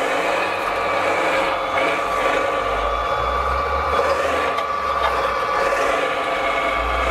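Radio-controlled construction model running steadily, with a mechanical whine and rubbing or scraping, and a low rumble that swells in the middle.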